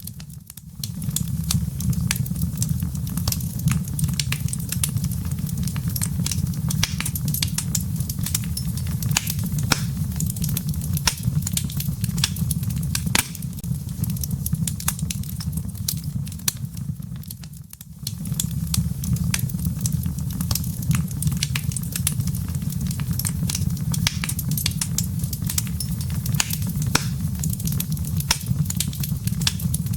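Wood logs burning in a fireplace: a steady low rumble of flame under constant sharp crackles and pops. The rumble drops away briefly just after the start and again a little past the middle.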